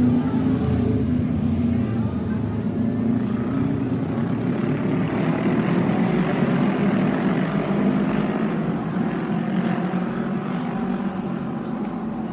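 Several Japanese autorace motorcycles running laps of the oval track at high revs, their engine pitch wavering as they circle past. The sound fades gradually toward the end.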